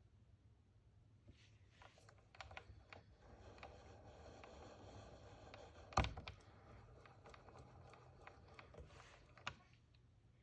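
Faint, irregular metallic clicks and light scraping from hand work at a small Sherline lathe after broaching a keyway, with one sharp click about six seconds in.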